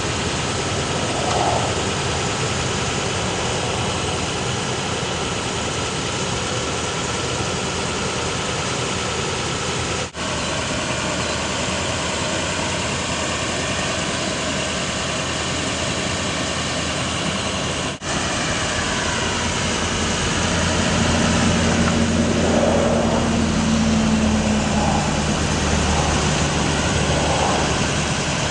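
Altec AT37G bucket truck's engine idling steadily, with two brief dropouts in the sound. About two-thirds of the way through it grows louder, and a steady low hum joins in.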